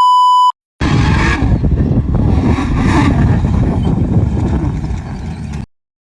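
A short electronic beep, then about five seconds of loud, rough vehicle engine noise from an off-road car driving hard. The noise cuts off abruptly.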